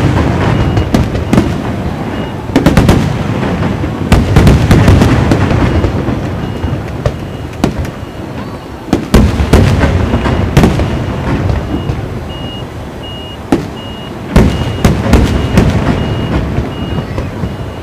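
Aerial fireworks shells bursting in repeated volleys of sharp bangs and smaller pops. The loudest clusters come at the start, around four to five seconds in, around nine to ten seconds, and again near fifteen seconds.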